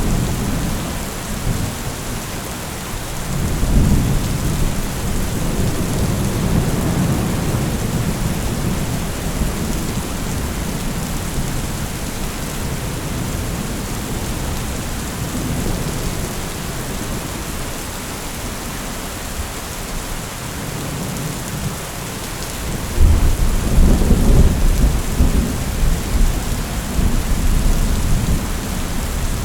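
Steady rain falling through a thunderstorm, with deep rolls of thunder swelling about three seconds in and again loudly from about 23 seconds to the end.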